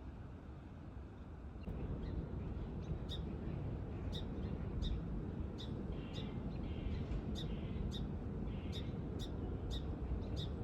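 A bird calling in a run of short, sharp notes, about two a second, with a few buzzier notes mixed in. Under it is a steady low rushing noise that grows louder about two seconds in.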